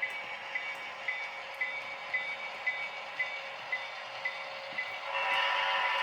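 Model train running on a layout, with a regular click about twice a second. About five seconds in, a louder, thin-sounding tone comes in, like a sound-equipped locomotive's horn.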